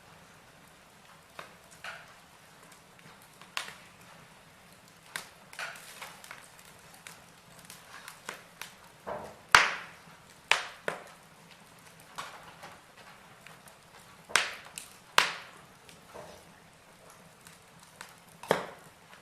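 Logs burning in a fireplace, crackling with irregular sharp pops. A few louder pops come about halfway through and again near the end.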